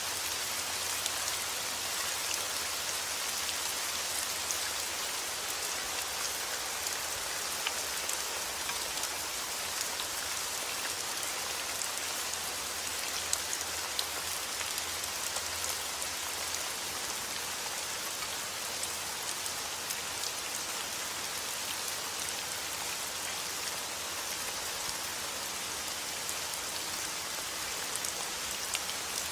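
Heavy rain falling outdoors: a steady, dense hiss with many individual drops ticking and splashing through it.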